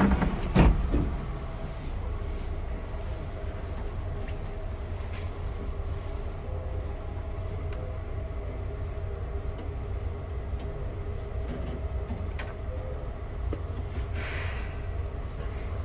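Steady low rumble and hum inside a Tobu 9000-series commuter train car, with faint steady tones above it. Two sharp knocks come right at the start, and a short hiss rises and fades near the end.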